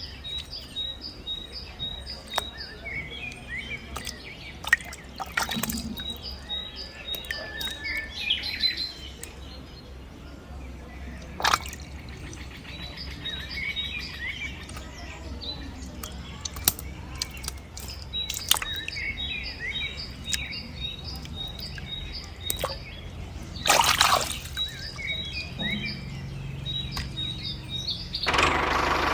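Small birds chirping, with runs of short, evenly spaced high chirps, over a steady low hum. A few brief sharp noises cut in, the loudest near the end.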